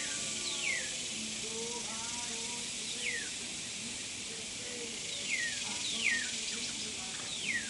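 Outdoor bird calls: short whistled notes that each slide quickly downward, about five of them spaced a second or two apart. A steady hiss runs underneath, with faint low pitched sounds.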